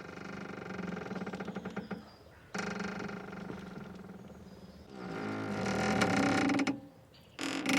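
A boat's rope squeaking under strain as the boat shifts. There are four long, drawn-out creaks, about one every two seconds; the third is the loudest.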